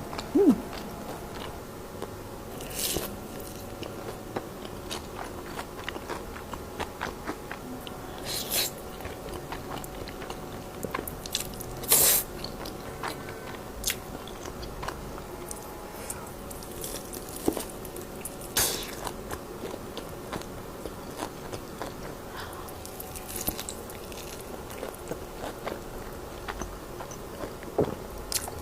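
A person chewing close to the microphone, with frequent small crunchy bites of fried food and a handful of louder crunches a few seconds apart.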